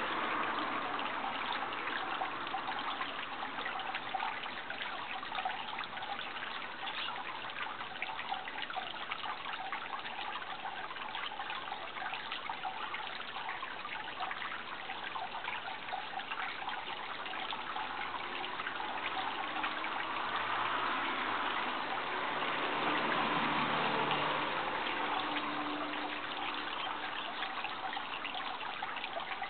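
Water trickling and splashing steadily, a busy crackle of small drops. In the second half a faint low drone rises and fades away.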